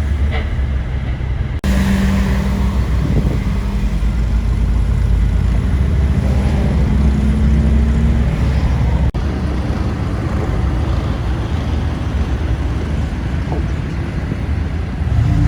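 Steady engine drone and road noise of a car being driven, heard from inside the cabin, with abrupt breaks about one and a half seconds in and about nine seconds in.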